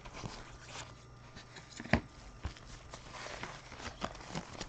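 Football trading cards being handled and flipped through: scattered light clicks and soft sliding, with one sharper tap about two seconds in.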